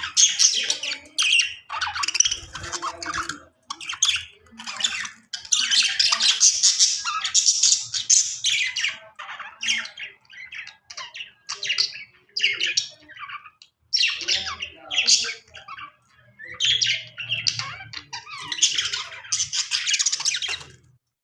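Budgerigar chirping and warbling: a run of high-pitched chattering in bursts of a second or two, with short pauses between.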